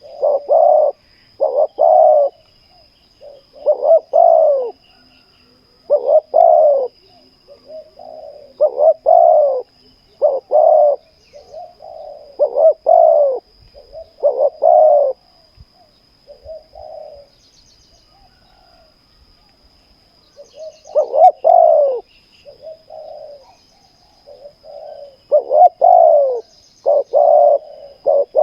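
Spotted doves cooing: repeated short phrases of two or three coos, with a quieter gap a little past the middle. A faint, steady, high-pitched tone runs underneath, with a few faint chirps.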